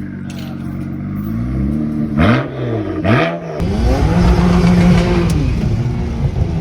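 BMW N54 twin-turbo straight-six being revved: the engine note rises and falls in two quick blips about two and three seconds in, then holds a steadier, higher note before dropping back.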